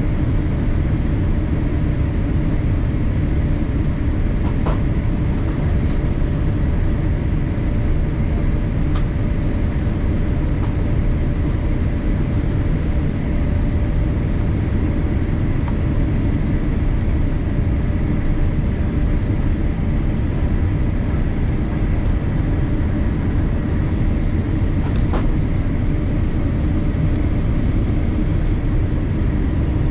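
Steady cabin noise inside a Boeing 787-8 airliner: an even, low rumble of airflow and engines with faint steady tones and a few light ticks.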